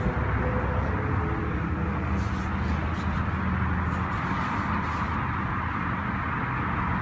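Steady low rumble of a running car engine, with an even hiss over it.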